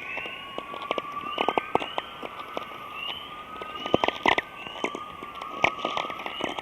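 The crackling and chirping that the uploader presents as the sound of the aurora borealis: irregular sharp crackles over a wavering steady whine, with short rising chirps repeating about every half second.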